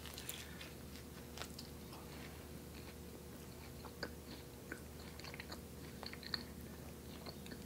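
Faint close-up biting and chewing of a chocolate peanut butter cronut: soft mouth clicks and smacks scattered throughout, over a steady low hum.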